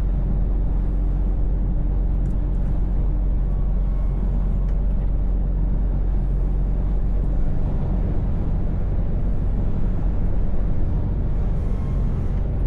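Scania V8 truck engine running with road noise inside the cab, a steady low drone; the deepest rumble changes about seven and a half seconds in.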